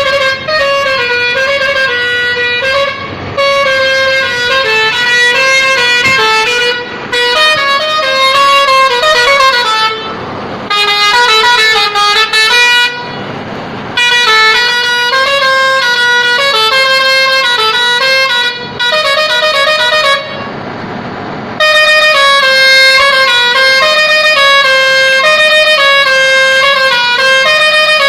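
Modified truck's musical horn playing a tune: loud, steady tones stepping from note to note in phrases a few seconds long, with brief breaks between them.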